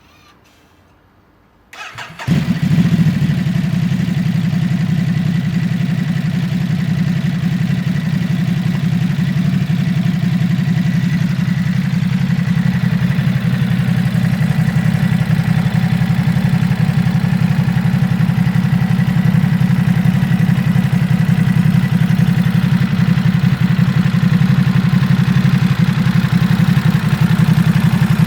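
Ducati SuperSport S 950's 937 cc V-twin engine being started: a brief crank about two seconds in, then it catches and settles into a steady idle.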